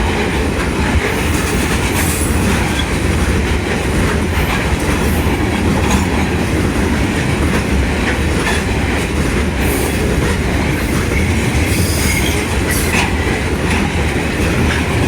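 Union Pacific grain train's freight cars rolling past close by: a loud, steady rumble with wheels clicking over rail joints and a few brief squeals of the wheels against the rail.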